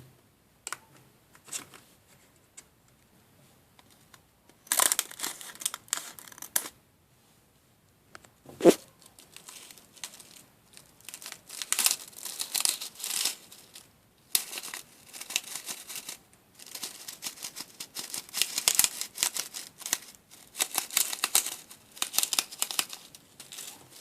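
Packaging of a DIY candy kit crinkling and tearing in bursts as it is handled, with one sharp click about nine seconds in.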